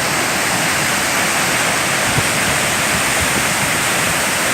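Waterfall crashing, a loud, steady rush of falling water.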